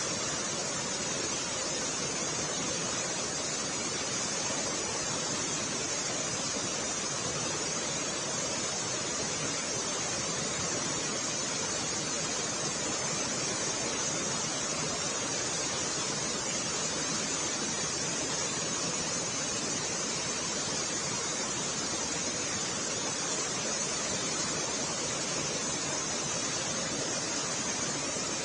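Rushing floodwater: a steady, unbroken rush of water noise.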